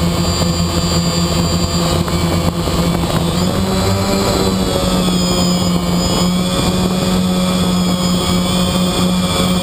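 Quadcopter's electric motors and propellers whining steadily, a loud hum made of several steady tones. The pitch shifts slightly about four seconds in as the motor speeds change.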